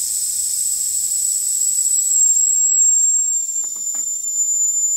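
Steam escaping from a Mamod steam tractor's boiler: a loud, steady hiss with a high whistling tone that drops slightly in pitch about two seconds in.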